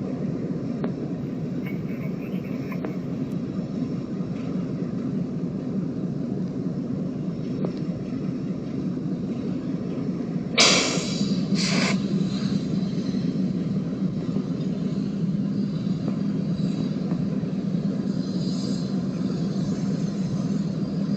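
Diesel locomotive engine of a waiting work train running with a steady low rumble, a little louder after about eleven seconds, with two short bursts of hiss about a second apart.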